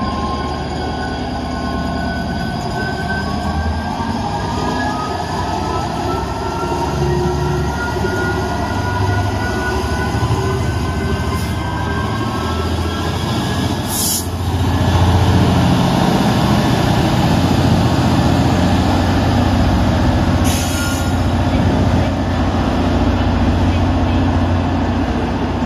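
Train on the move: a whine that rises steadily in pitch for about fourteen seconds, then a louder rumble of wheels on track, with a sharp click about halfway through.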